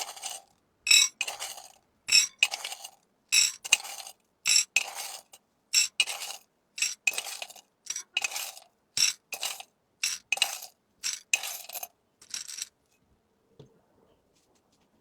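Small hard items clinking and rattling in a rapid, even rhythm of paired strikes, about one pair a second, stopping about twelve and a half seconds in.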